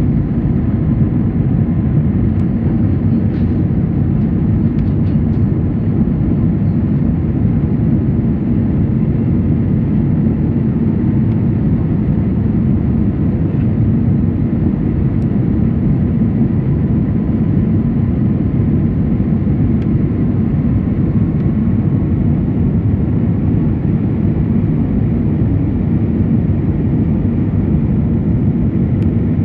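Airbus A319 jet engines and airflow heard from inside the passenger cabin as a steady, loud, low rumble.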